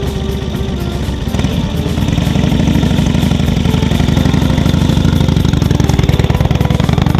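2010 Indian Chief Retro's air-cooled V-twin engine running, rising in speed and loudness about two seconds in, then holding at the higher speed.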